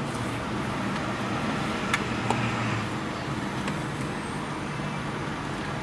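Car engine idling with a steady low hum, heard from inside the cabin, with a couple of small clicks about two seconds in.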